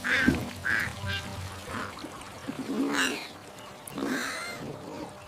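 A duck quacking: about seven short quacks at uneven intervals.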